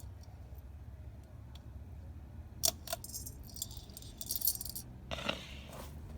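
Metal pull chain of a Harbor Breeze ceiling fan jingling as it is handled, with a couple of sharp clicks about two and a half seconds in, as the fan's pull-chain speed switch is worked to change speed.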